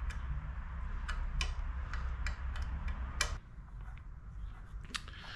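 Irregular small metal clicks and taps from refitting a brake lever and its clamp onto mini bike handlebars, about ten in all, the loudest a little past three seconds in.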